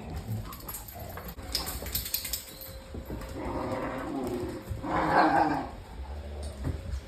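Dogs play-fighting: scuffling, then growling noises, the loudest coming about five seconds in.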